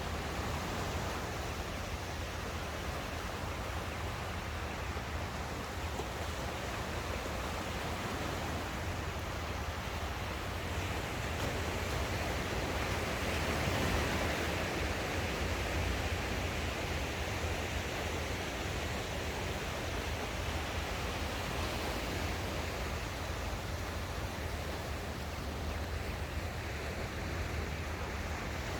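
Sea surf washing on the shore: a steady wash of waves that swells louder about halfway through and then eases back.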